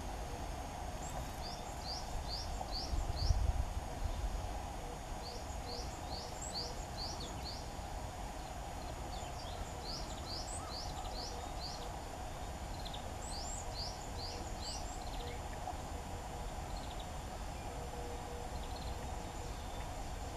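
A small songbird singing: four short phrases, each of four or five quick rising high notes, a few seconds apart. A brief low rumble about three seconds in, over a steady background hum.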